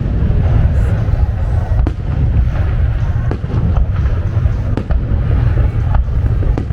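Fireworks display: a continuous low rumble of bursting shells, with sharp cracks about once a second.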